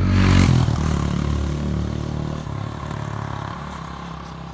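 Suzuki TU250's 250 cc single-cylinder engine running through an aftermarket Blue Collar Bobber muffler, a meaty, dirt-bike-like exhaust note. It is loudest in the first half second, then grows steadily quieter.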